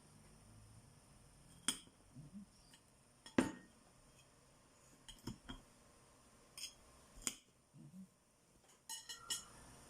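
Dishes and utensils being handled: scattered light clinks and knocks, the loudest about three and a half seconds in and a quick run of clinks near the end.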